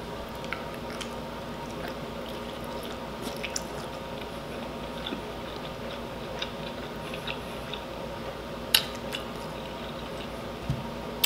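A person chewing a mouthful of sauce-soaked rotisserie chicken close to the microphone: soft wet mouth clicks and smacks over a steady faint hum, with a sharper smack about nine seconds in.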